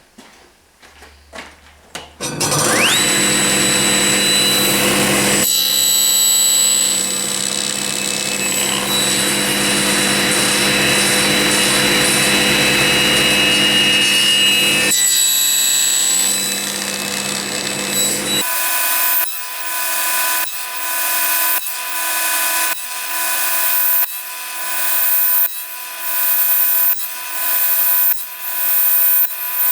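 Electric power tool motor starting about two seconds in, its whine rising quickly to a steady pitch, then running loud and steady with cutting noise. From a little past halfway the sound changes to a regular pulsing, roughly once every second and a half.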